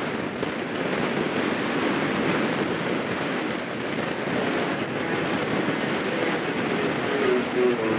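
Strong wind buffeting the microphone in a steady rushing roar, with a few faint short tones near the end.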